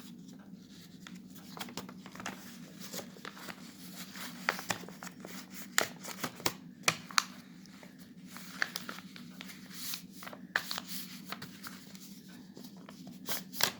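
A sheet of paper being folded and creased by hand into a paper aeroplane: scattered crinkles and crackles, with a few sharper snaps around four to seven seconds in and again near the end. A steady low hum runs underneath.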